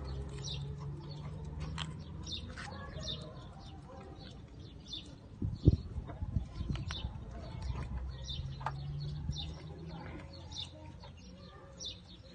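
Birds chirping over and over, short high calls, with a low hum at times. A single sharp knock comes about halfway through.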